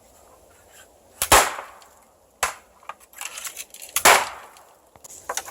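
Dead bamboo stalks cracking sharply as they are broken or kicked down: three loud cracks, about a second or more apart, and a smaller one near the end.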